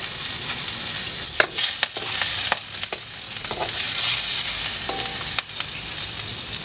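Food frying in hot oil in a metal wok, with a steady sizzle. A spatula stirs and scrapes against the wok, giving scattered sharp clicks.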